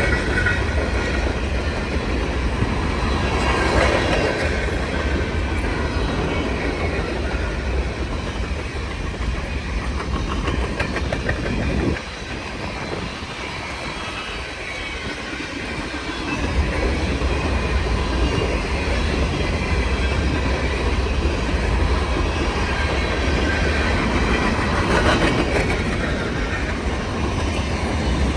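Freight cars of a CN freight train rolling past, wheels clacking over the rail joints with a steady low rumble. It goes quieter for a few seconds about halfway through.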